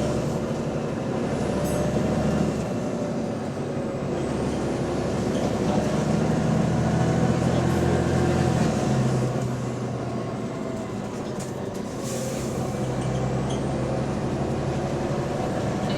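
Bus engine running under way, heard on board, its note rising and falling with engine speed, with the noise of an exhaust leak. There is a short hiss about twelve seconds in.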